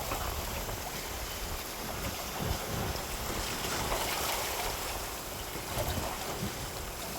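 Steady wind buffeting the microphone over a continuous wash of water, with gusty low rumbling.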